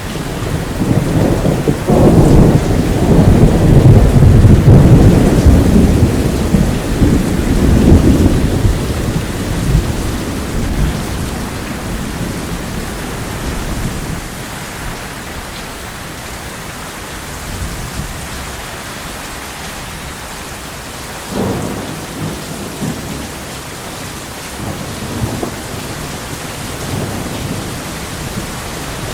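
Steady heavy rain with a long roll of thunder that builds about two seconds in, rumbles loudest for several seconds and fades away, and a shorter, fainter rumble of thunder about two-thirds of the way through.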